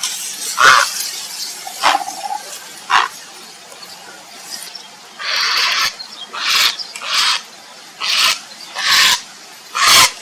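Grey heron giving a series of about nine short, harsh, croaking calls at irregular intervals, with one longer call about halfway through.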